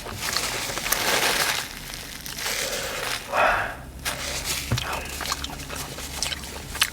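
Close-up eating noises: chewing and small mouth clicks with breathy puffs of air, the eater breathing out against the burn of a very spicy jalapeño sushi roll.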